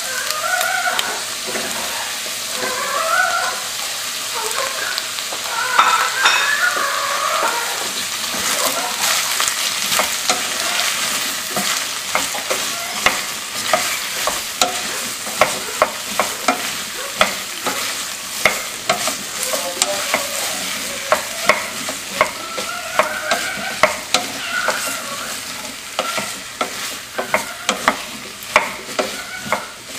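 Onions, carrots and potatoes sizzling in oil and tomato paste in a stainless steel pot, stirred with a wooden spoon. Through a steady sizzle, the spoon knocks and scrapes against the pot with frequent sharp clacks from about eight seconds in.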